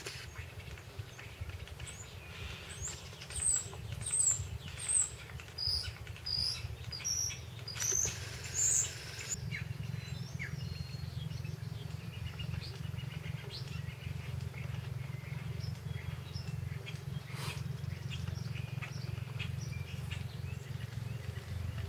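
A bird chirping, a run of about ten short high notes between about three and nine seconds in, over a steady low rumble.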